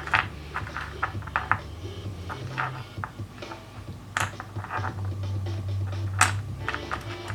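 Sharp, scattered clicks of rough opal pieces being handled and knocking together, over soft background music with a steady low bass line.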